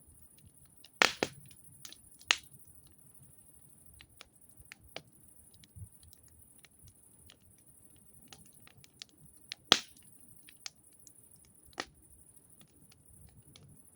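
Wood campfire crackling: scattered sharp pops and snaps at irregular intervals, the loudest about a second in, again just after two seconds, and near ten seconds in.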